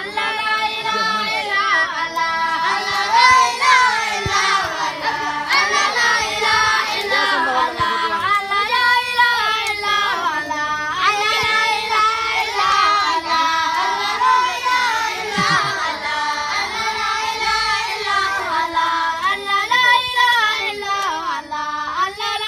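A group of children singing together, unaccompanied, in a steady continuous song.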